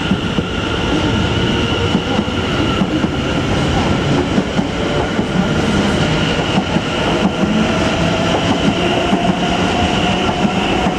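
Two coupled Class 720 electric multiple units pulling out of a station, their wheels clicking over rail joints. A steady high whine runs throughout, and a second whine rises slowly in pitch through the second half as the train picks up speed.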